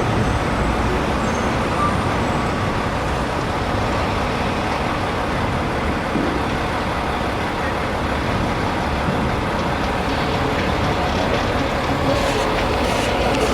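Steady motor-vehicle noise of trucks and road traffic running, with a continuous low rumble.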